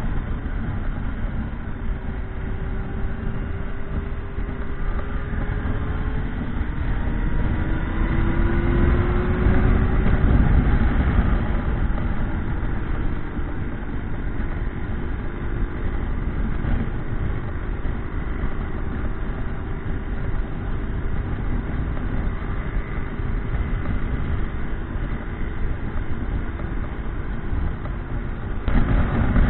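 Motorcycle engine running at fairly steady revs under a heavy low rumble of wind and road noise; its pitch drifts slowly up and down.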